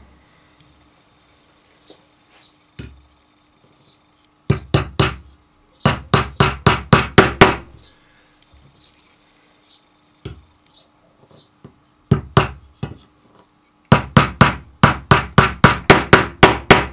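A hammer tapping small nails into the wooden bottom bars of a beehive frame: four runs of quick, evenly spaced taps, about five a second, each run several strikes long, with pauses between as the next nail is set.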